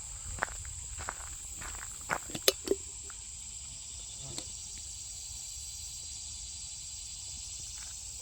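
A steady high-pitched drone of insects, with footsteps crunching along a gravel road for the first three seconds or so. The steps then stop, leaving the insect drone alone.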